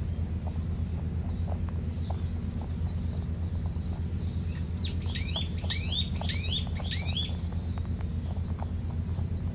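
A songbird calls a quick run of downward-sweeping chirps about halfway through, over a steady low rumble. Faint scattered clicks run beneath it, from a rabbit crunching food pellets close by.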